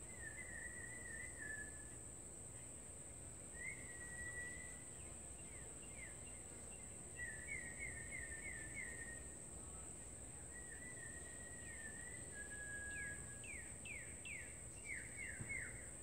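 A small songbird chirping in a string of short phrases, some quick repeated notes and some falling sweeps, over a steady high-pitched whine.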